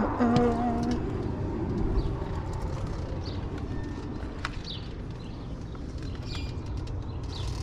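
Low, steady rumble of an idling vehicle engine, with scattered short bird chirps and a brief squeak in the first second.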